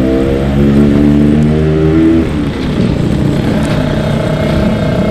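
Yamaha RX King 135cc two-stroke motorcycle engine pulling under acceleration, its pitch rising for about two seconds, then dropping at a gear change and running on steady.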